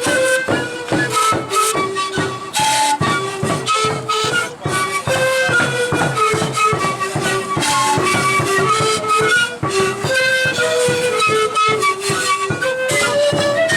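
Andean folk music: a flute-like wind melody moving in short stepped notes over steady, busy percussion.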